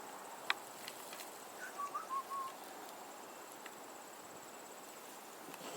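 Quiet outdoor background with a steady, high, thin insect drone, a single sharp click about half a second in, and a few short, faint chirps about two seconds in.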